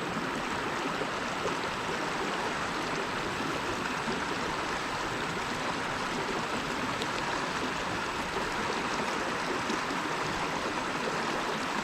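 Creek water running steadily over rocks, an even rushing.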